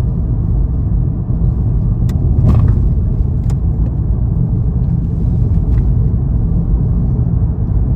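Road noise inside a moving car: a steady low rumble, with a few short clicks or knocks a couple of seconds in.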